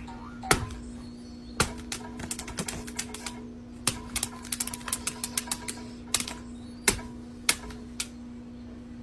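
Irregular sharp clicks and taps, at times several a second in quick runs, over a steady low hum.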